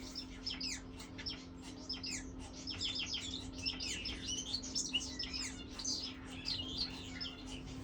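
Many rapid, overlapping high chirps and peeps from birds, each a short downward-sliding note, over a steady low hum.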